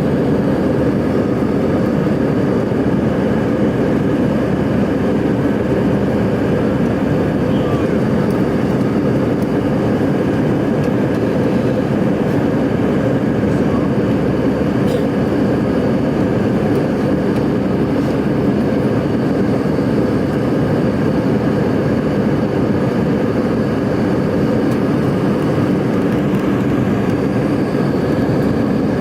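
Airbus A319 jet engines and rushing air heard inside the passenger cabin: a loud, steady drone with a few constant hum tones and no change in pitch.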